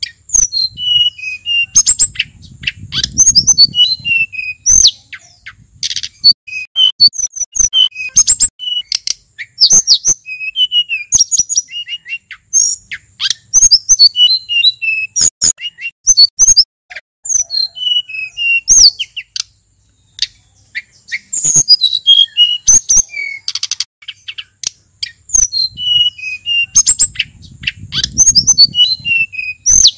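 Male sulingan gunung songbird singing a fast, varied song of high whistles, chirps and quick trills, in runs broken by short pauses. A faint low rumble sits under the song twice.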